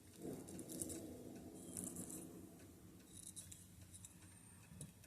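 Faint scratchy rustling and light ticks of small craft pieces being handled and pressed into a resin mould, with a soft low murmur in the first couple of seconds.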